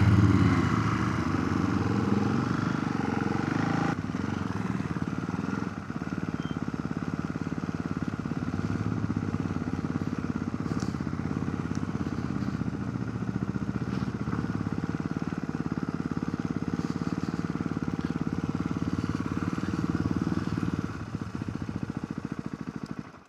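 Motorcycle engine running steadily, heard through a helmet chin-mounted camera. The sound eases near the end and then cuts off suddenly.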